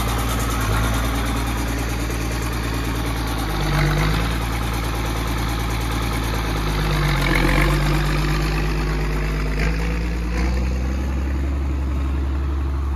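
Tractor engine running steadily, rising briefly in pitch a couple of times. It is smoking, which the crew puts down to water getting into the fuel.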